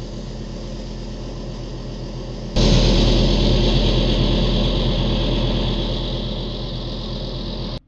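Storm wind blowing through trees, a steady rush that suddenly grows much louder about two and a half seconds in as a strong gust hits, then slowly eases off before cutting off near the end.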